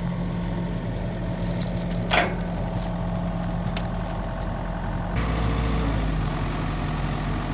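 Heavy diesel engine idling steadily, its note stepping up and growing louder about five seconds in. A brief squeal about two seconds in.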